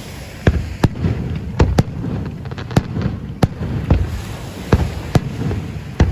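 Aerial fireworks display bursting: about ten sharp bangs at irregular intervals over a continuous low rumble.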